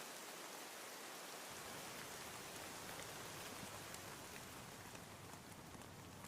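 Steady rain falling in an even hiss, with a deeper rumble joining about a second and a half in and a few faint ticks near the end.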